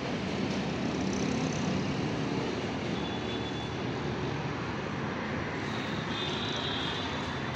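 Steady outdoor noise of a city in the rain: an even hiss of rainfall with distant traffic. A faint high-pitched tone sounds twice.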